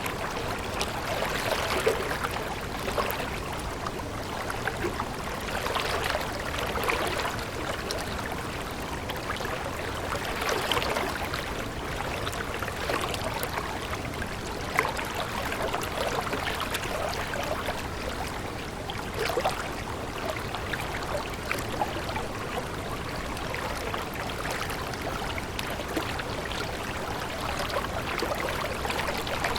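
Water flowing in a stream, babbling steadily with many small irregular splashes.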